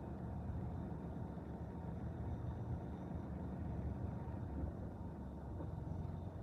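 Train rolling past, a steady low rumble of its wheels on the rails.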